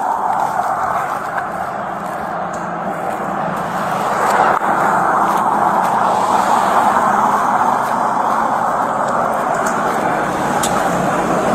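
Steady vehicle noise on a highway: a constant rushing hiss, a little louder from about four seconds in, with a faint low hum underneath.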